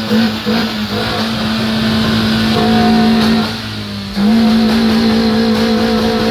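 Car engine revving: a few quick blips at the start, then held at steady high revs, dipping briefly about four seconds in before rising again.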